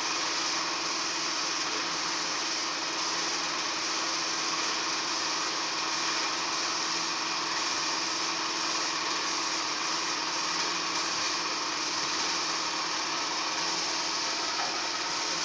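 A steady machine hiss with a constant low hum underneath, holding an even level without a break.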